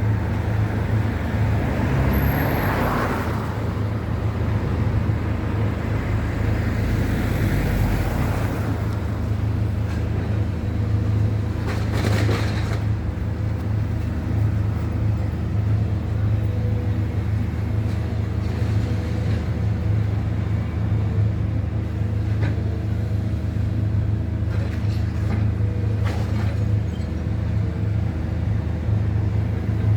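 A steady engine drone with a deep, even hum, with a short clatter of knocks about twelve seconds in.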